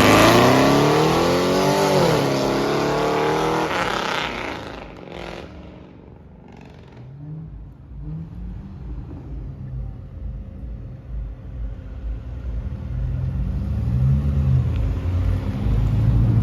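Car engine revving hard, its pitch climbing and falling over the first few seconds, then dropping to a lower running sound with a couple of short throttle blips, and building louder again near the end.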